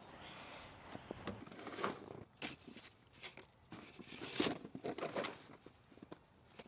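Heavy, wet snow crunching in a few irregular strokes, loudest about halfway through.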